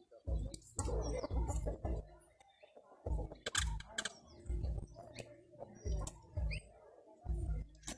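Birds at a cracked-corn bait spot, with short calls and sharp clicks among repeated low thumps.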